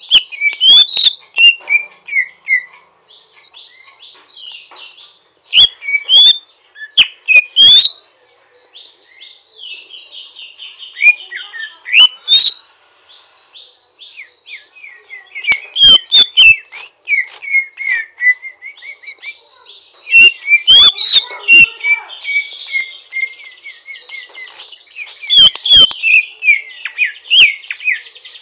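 Greater green leafbird (cucak ijo) giving a rough, rapid chattering twitter in repeated bursts of a second or two, mixed with whistled notes that sweep up and down. Several sharp loud clicks break in among the song. This harsh chatter ('ngriwik kasar') is the rough song of a bird still learning to sing in full.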